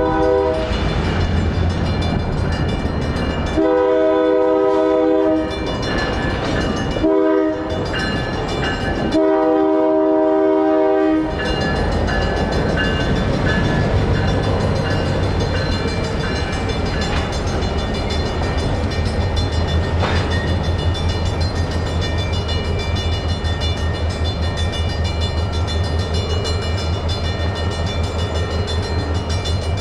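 EMD SW1500 switcher locomotive sounding its horn for the grade crossing in the long-long-short-long pattern, the last long blast ending about eleven seconds in. Then the locomotive's diesel engine rumbles with a steady, even pulsing as the train moves through, while the crossing bells keep ringing.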